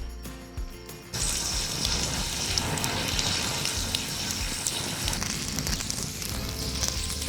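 A few light clicks, then about a second in food goes into a hot pan and starts sizzling steadily, with crackling through the hiss. Background music plays throughout.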